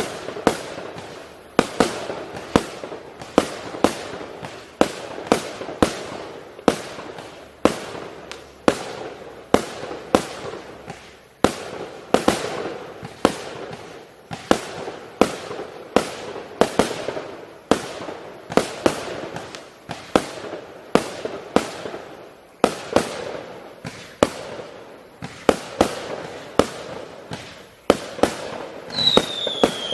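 Magic Tornado consumer fireworks cake firing shot after shot. Sharp bangs come about twice a second, each followed by crackling, and a falling whistle sounds near the end.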